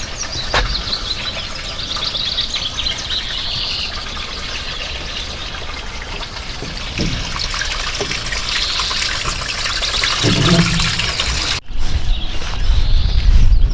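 Songbirds singing repeated trilling phrases over a steady rushing hiss. Near the end the sound cuts out briefly, then low rumbling wind noise on the microphone comes in.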